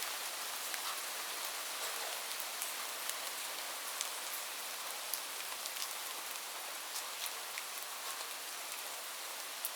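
Steady rain falling on a hard surface: an even hiss with scattered sharper drop ticks.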